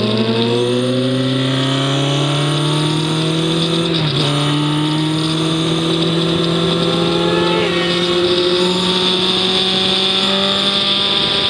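Onboard sound of a track vehicle's engine pulling up through the revs, with a quick gear change about four seconds in, then climbing slowly again and levelling off near the end, over steady wind and road noise.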